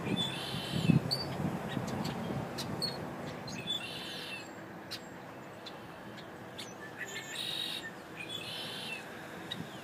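Several short bird calls, each about half a second long and a few seconds apart, over a steady low rumble of outdoor background noise.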